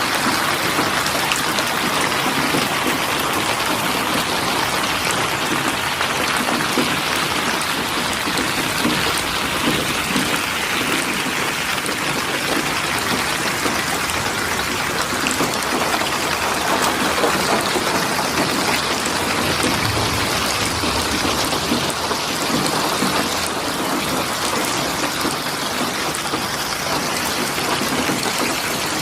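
Steady rain falling, a dense even hiss of many drops hitting surfaces.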